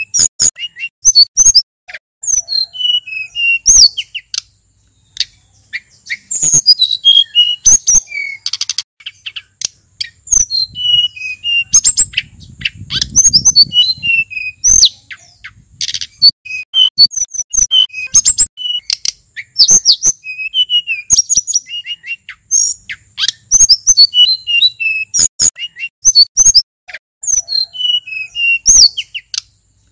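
Male sulingan gunung, a small Javanese mountain songbird, singing in fast varied bursts: quick strings of sharp high whistles and chips that sweep up and down, broken by short pauses.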